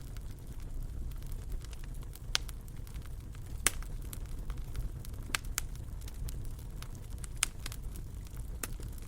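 Wood fire burning in a fireplace: a steady low rumble with sharp crackles and pops at irregular intervals, the loudest pop a little under halfway through.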